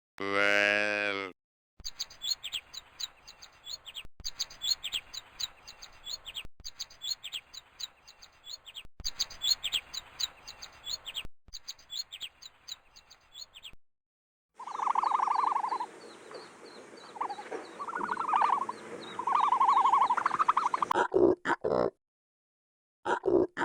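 A run of different animal calls. A short pitched call comes first, then about twelve seconds of rapid high chirping, then a brief pause and a stretch of lower, rounder calls over a steady hiss, with a few short calls near the end.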